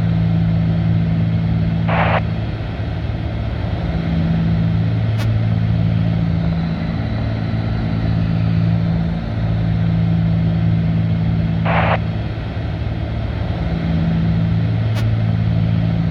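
Cabin drone of a Cessna 310's twin piston engines and propellers in cruise: a steady low hum that swells and fades every few seconds. Two short, higher-pitched sounds come about ten seconds apart.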